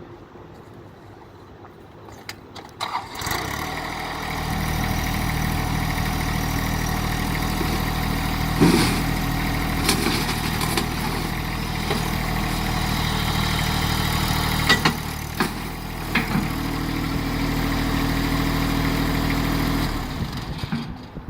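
Compact tractor diesel engine starting about three seconds in, running steadily with a few sharp clunks over it, then shutting off near the end.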